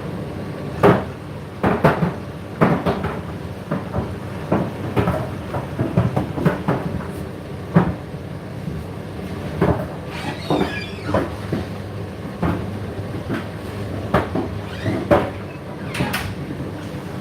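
Hotpoint washing machine and Indesit condenser tumble dryer running together: a steady machine hum with irregular knocks, about one a second, as the loads drop and tumble in the turning drums.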